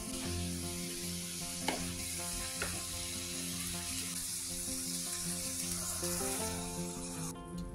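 Fried eggs and chili spice paste sizzling in a nonstick wok while being stirred with a wooden spatula, with two sharp taps about a second apart early in the stirring. The sizzling cuts off suddenly near the end.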